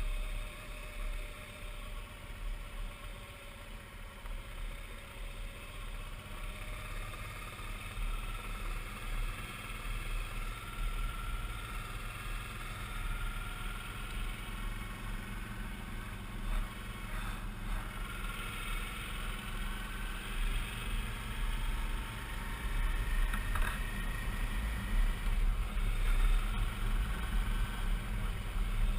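Suzuki V-Strom 650 V-twin motorcycle running under way, with a faint engine whine that slowly rises and falls in pitch. It grows somewhat louder over the last several seconds.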